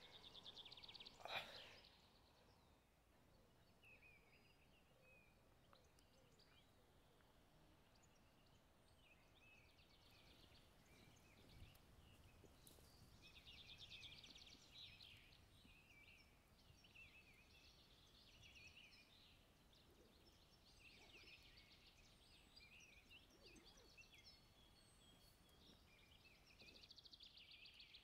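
Faint songbirds singing on and off over quiet outdoor ambience, with one short knock about a second in.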